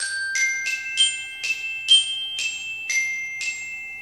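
A short tune of bright, bell-like notes struck with a mallet, like a glockenspiel. There are about nine notes, roughly two a second, each ringing on under the next.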